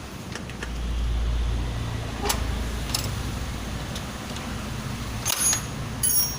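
Metal parts and tools clinking and ringing during motorcycle engine assembly: a couple of sharp clicks, then two short bursts of metallic clinks near the end, over a low rumble that swells about a second in.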